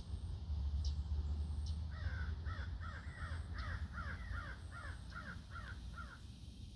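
A bird calling a quick run of about ten falling notes, starting about two seconds in and lasting some four seconds, over a low steady rumble.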